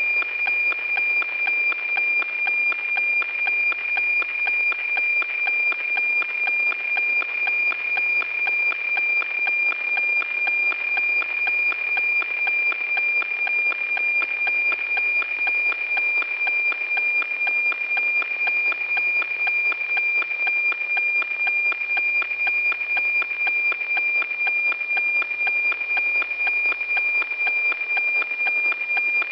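NOAA-18 weather satellite APT signal as received on a radio: a steady high tone near 2.4 kHz with a regular, rapid tick-tock rhythm, each tick one scan line of the cloud image.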